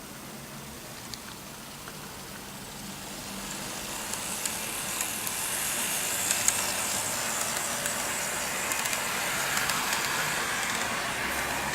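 N-gauge model railcar running on its track, the rolling noise of wheels and motor growing louder from about a third of the way in as it nears, with scattered light clicks of wheels over rail joints.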